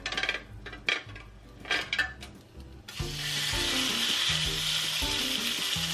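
A few sharp knocks, then about three seconds in a steak begins to sizzle loudly as it is grilled, a steady hiss that keeps on.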